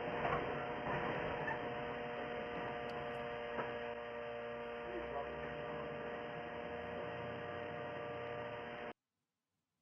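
Steady electrical hum: several steady tones over a constant low hiss, with a few faint clicks. It cuts off abruptly to dead silence near the end.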